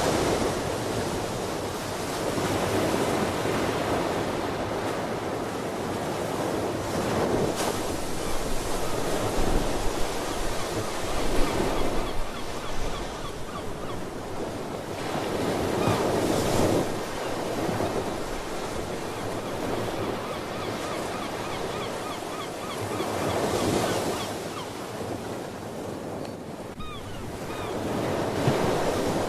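Ocean waves breaking and washing on the shore, swelling and easing every few seconds. Faint sea bird calls come through in the second half.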